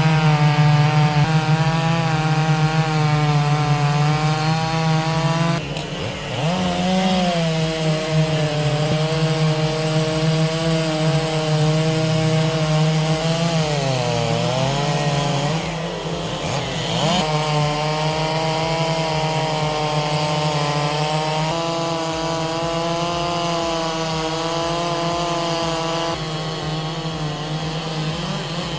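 Chainsaw running at high revs while cutting through wood, its engine pitch sagging briefly a few times as the chain bites into the cut.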